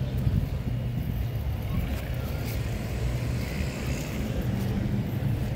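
Steady low hum of a car engine running, in street traffic.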